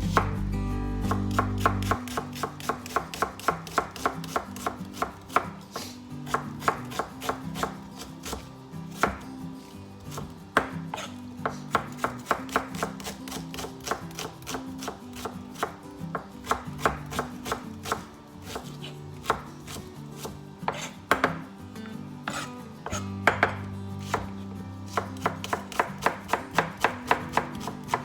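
Knife chopping on a cutting board, with quick runs of several sharp strikes a second broken by short pauses.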